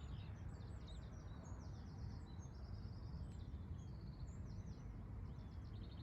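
Several small songbirds singing and calling together, with overlapping high trills and short chirping phrases, over a steady low rumble.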